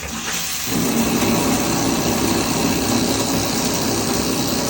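Water running from a newly installed shower head, a steady spray that gets louder about a second in as the flow opens up.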